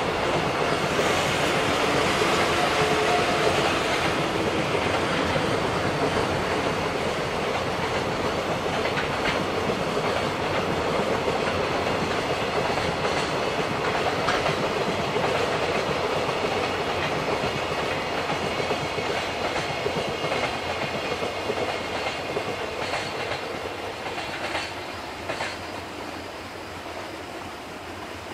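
Container freight train wagons rolling past, wheels clacking over rail joints in a steady rumble. The sound fades over the last several seconds as the end of the train pulls away.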